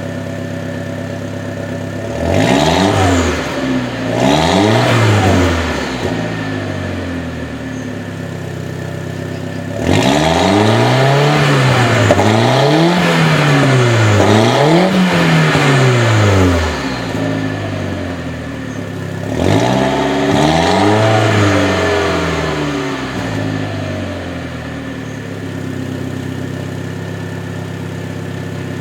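Audi A4 1.8T turbocharged inline-four, with the muffler deleted and the catalytic converter gutted, idling and being blipped with the throttle. It revs up and drops back in groups of two or three rises, returning to a steady idle between them.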